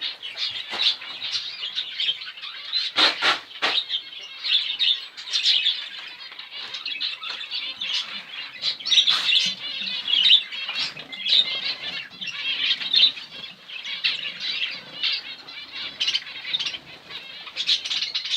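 A roomful of small cage birds chirping and twittering continuously, with wings fluttering and a few sharp clicks about three seconds in.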